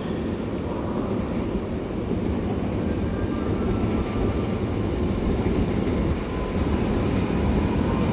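Double-decker suburban train pulling into the station: a steady rumble of wheels and running gear that grows gradually louder as it comes in fast.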